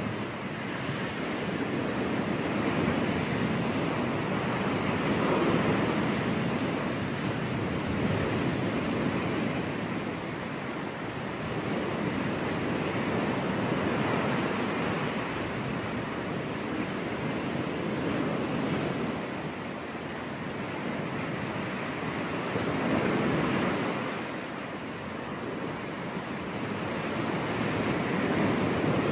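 Ocean surf: waves breaking and washing on a beach, a steady rush that swells and eases every few seconds.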